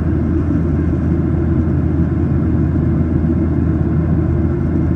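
Steady low rumble of engine and airflow noise in a Boeing 737-800's cabin during the climb after 10,000 ft, unchanging throughout.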